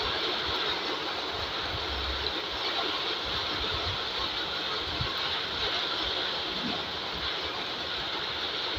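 Heavy rain falling steadily, an even hiss, with occasional low rumbles underneath.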